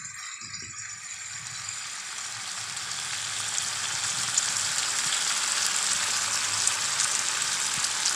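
Jackfruit curry sizzling in a kadhai, the pieces frying in masala and oil with fine crackles. The sizzle builds steadily louder.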